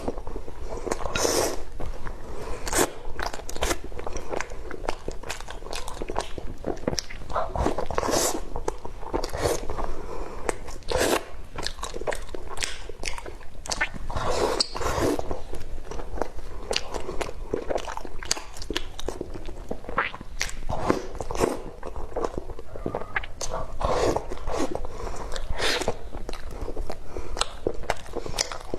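Close-miked mukbang eating sounds: continuous wet chewing and lip smacking with many short, sharp mouth clicks, from someone eating curry with rice.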